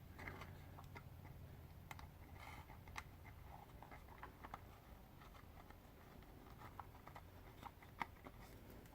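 Near silence, with faint scattered small clicks and taps from hands handling the superglue bottle and the plastic part being glued.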